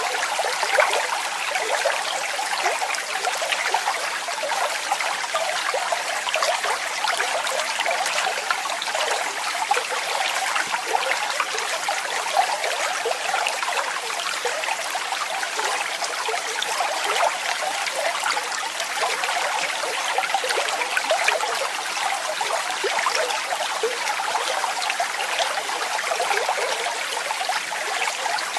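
Running water splashing and trickling steadily, a continuous hiss of fine spatters with little deep rumble.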